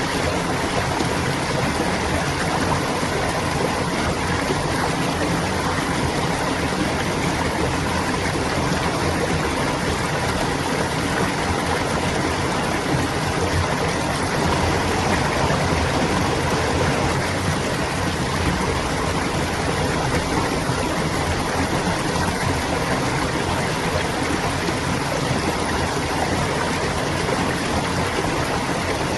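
Shallow stream water flowing and babbling steadily.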